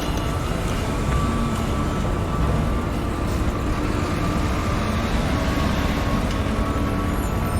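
Construction-site heavy machinery running: a steady low engine rumble with faint whining tones above it and no distinct knocks or impacts.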